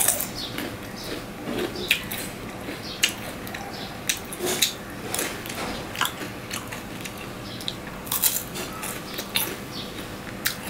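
Close-up chewing and biting of crisp jalebi: irregular crunches and small crackles throughout.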